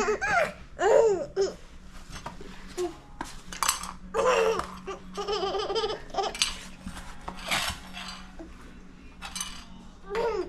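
A baby laughing and babbling in short bursts, with a few light clinks and knocks between them.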